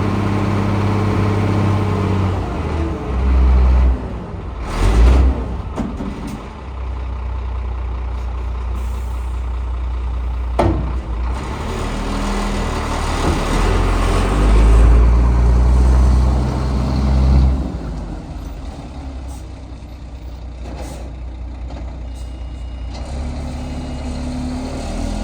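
Scania P380 dump truck's diesel engine running, its speed stepping up and down several times. Sharp bursts of compressed-air hiss come through, one about five seconds in and another near eleven seconds.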